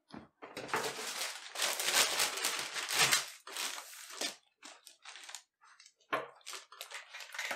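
Newspaper rustling and crinkling as a sheet is unfolded and slid under a sheepskin coat. A long stretch of dense rustling is followed by shorter, scattered rustles from about four seconds in.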